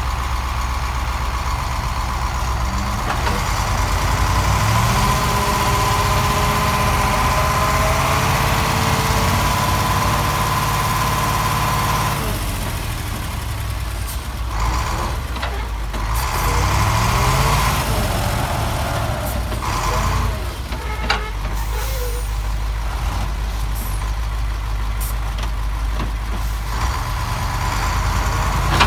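Engine of a heavy vehicle running, rising in pitch about four seconds in and holding there with a steady whine, then easing back around the middle, with a few sharp clicks or knocks in the second half.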